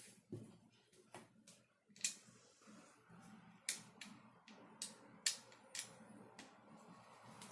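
Irregular sharp clicks and taps of 3D-printed plastic gun-kit parts being handled and fitted together, about seven in all, over a faint steady hum.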